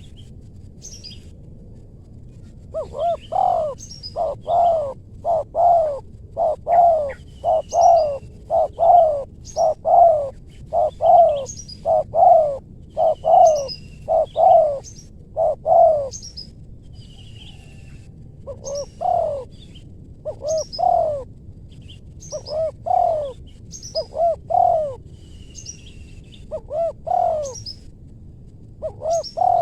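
Spotted dove (tekukur) cooing: a long run of loud coos, about two a second, breaking off briefly about two-thirds of the way through and then starting again. Small birds chirp faintly and high in the background.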